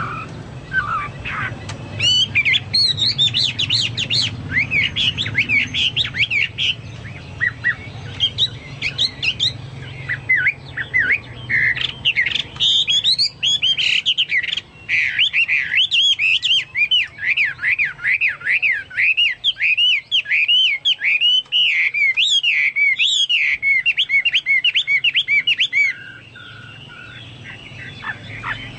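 Chinese hwamei singing continuously: loud, varied whistled phrases that build into a long run of quick, repeated slurred notes, then stop about two seconds before the end. The song resembles that of cucak birds.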